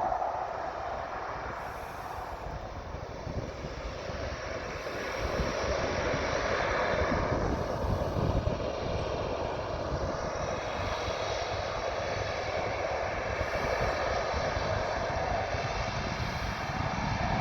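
Water bomber's engines running as it readies for takeoff, heard through heavy wind buffeting on the microphone. The engine sound swells about six seconds in and stays up.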